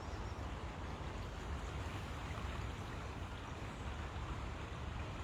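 River water flowing and rushing steadily, with a low rumble underneath.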